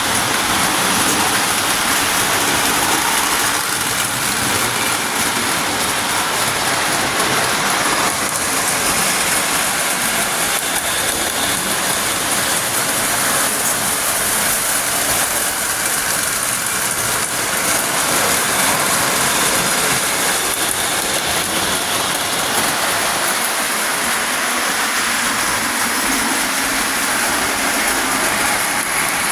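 Pre-war Lionel tinplate toy trains running steadily on metal track, a continuous even mechanical rattle and whir with no pauses.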